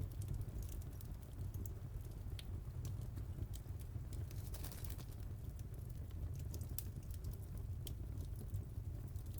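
Wood fire in a fireplace crackling: scattered sharp pops and snaps over a steady low rumble, with a brief hiss about halfway through.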